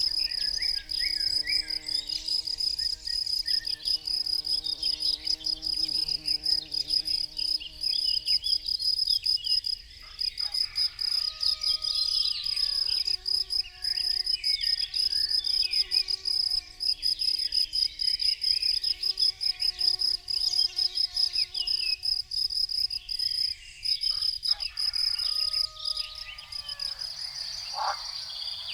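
Crickets chirping in a fast, unbroken trill, with a flying insect buzzing close by that drops away a couple of seconds before the end.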